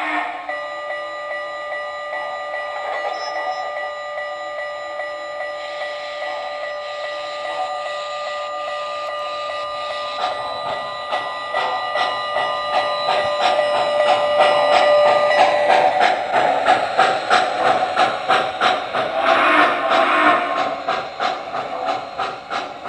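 Model steam locomotive sound system (MTH Proto-Sound 2.0, Western Maryland 2-10-0 Decapod) sounding a long, steady multi-tone steam whistle for about fifteen seconds. About ten seconds in, steady exhaust chuffing starts under it and grows louder as the engine gets moving, with a burst of steam hiss near the end.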